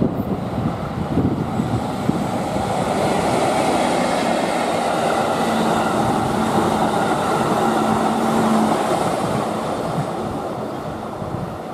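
Electric locomotive EF64 hauling a four-car E131 series electric train past at speed: the rumble of the wheels on the rails builds as the cars pass close by, with a steady low hum for a few seconds in the middle, then eases as the train moves away.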